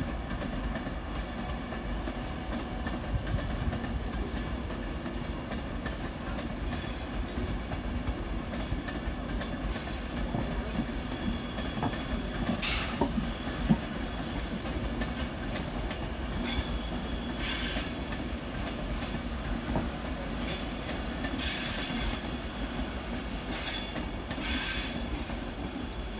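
Class 390 Pendolino electric train running past on the rails, a steady rumble of wheels on track. From about ten seconds in come high-pitched wheel squeals and several short screeches.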